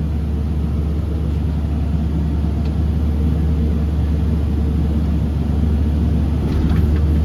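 Tractor engine running steadily under load while driving the grain cart's unloading auger, heard from inside the cab: a low, steady drone with a faint whine above it.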